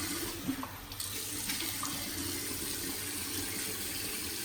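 Tap running steadily into a bathroom sink, with small splashes of water being scooped up by hand to wet the face.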